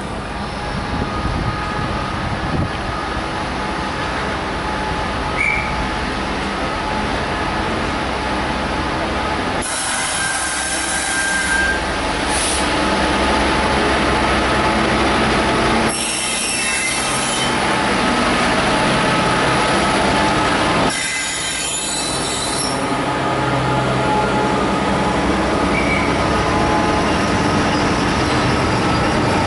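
Freightliner Class 66 diesel locomotive running as it hauls a container freight train past, the engine's steady low hum under the rumble of the passing wagons. Several bursts of high-pitched wheel squeal come and go as the train rolls by.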